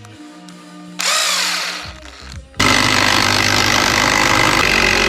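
Milwaukee cordless impact driver triggered: a short burst about a second in, then a longer run of about three and a half seconds, running unloaded.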